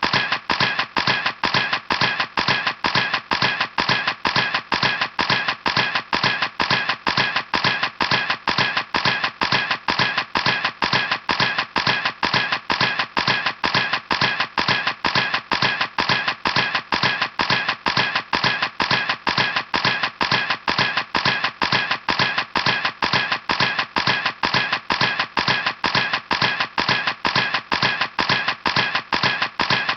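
Camera shutter clicking over and over in an even, unbroken rhythm, about three clicks a second.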